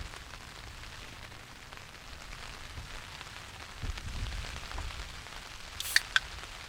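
Steady rain pattering, with a low rumble that swells about four seconds in. Two sharp clicks come close together near the end.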